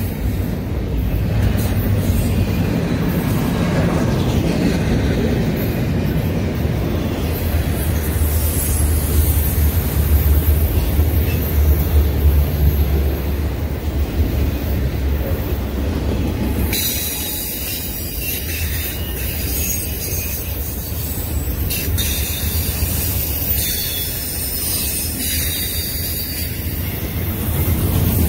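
Freight train cars rolling past at track side: empty intermodal well cars and then autorack cars, with a steady low rumble of steel wheels on rail. A little past halfway the low rumble eases and higher-pitched rail noise comes in.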